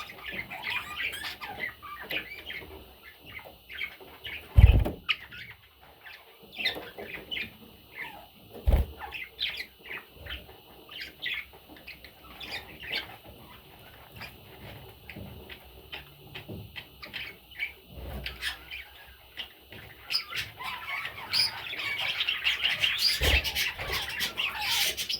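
Baby budgerigars chirping in quick, scattered short calls, becoming denser and louder about 20 seconds in. There are a few low thumps early on, the loudest about 5 seconds in.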